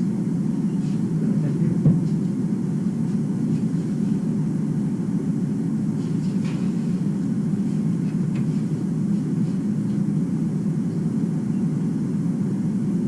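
Steady low rumble with a few faint ticks, one a little louder about two seconds in.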